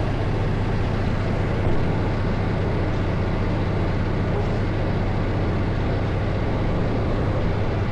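Semi-truck engine and road noise: a steady low drone without a break.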